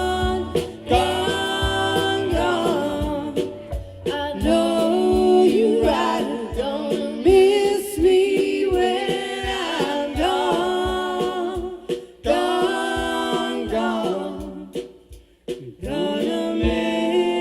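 Several voices singing together in harmony, largely a cappella, in sung phrases separated by short breaks.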